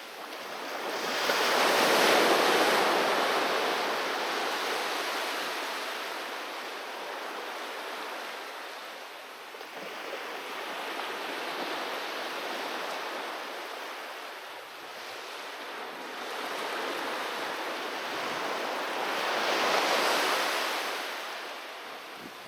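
Ocean surf breaking on a beach. A big wave crashes about two seconds in and another near the end, with softer swells of washing surf between.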